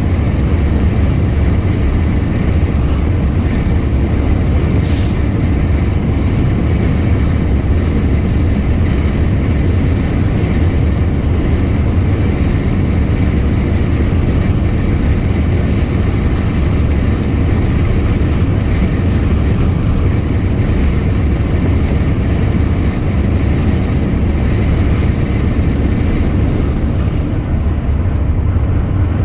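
A truck's engine and road noise from a drive at speed, a steady low drone. There is a brief hiss about five seconds in.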